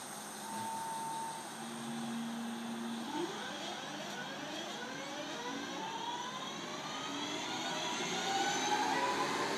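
Train drawing away from the station, its drive giving a whine of several tones that climb steadily in pitch from about three seconds in, growing slowly louder as it accelerates.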